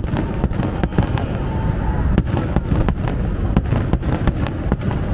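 Fireworks display going off: many sharp bangs and cracks, several a second, over a continuous rumble of bursts.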